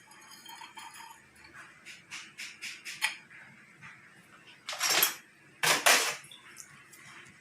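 Small metal injection-pump parts clicking and clinking against each other as they are handled and fitted, a quick run of light ticks followed by two louder half-second rasping sounds about a second apart.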